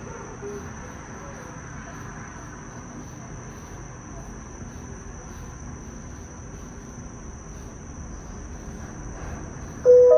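Steady low rumble and hiss of a Disney Skyliner gondola cabin in flight, with a constant high-pitched whine. Near the end, a loud chime rings out of the cabin's speakers, the cue before the onboard narration begins.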